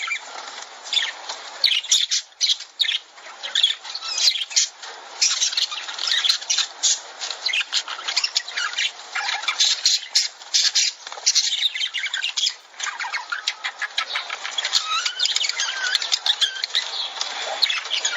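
A flock of lovebirds chattering: a dense, unbroken stream of short shrill squawks and chirps.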